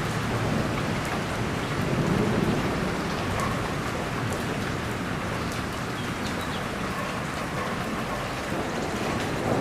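Steady heavy rain falling on a surface, with a low thunder rumble swelling briefly about two seconds in.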